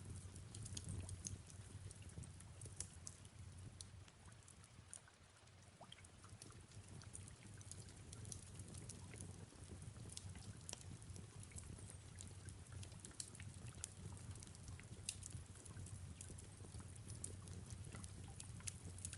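Faint fireplace crackle: many scattered small sharp pops over a steady low rumble, with soft rain falling.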